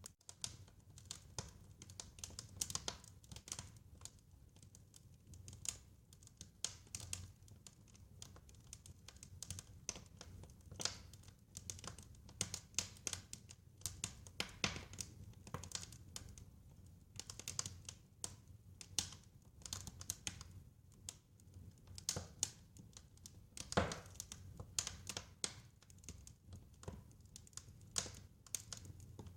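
Wood fire crackling in a fireplace: irregular pops and snaps over a faint low rumble, with one louder snap a few seconds before the end.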